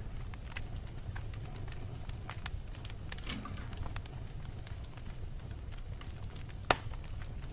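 Wood logs burning in a fireplace: a steady low rumble of flames with scattered crackles and one sharp, louder pop near the end.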